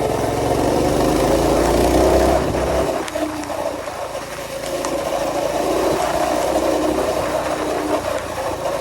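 Minibike engine running as the riders set off, its pitch wavering with the throttle. A heavy low rumble underneath drops away about three seconds in.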